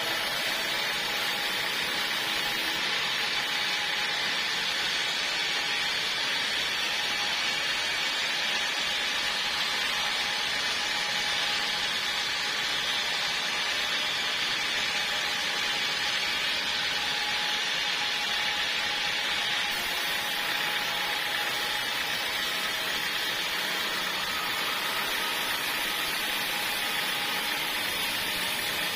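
Portable sawmill running steadily, an even, unbroken machine noise.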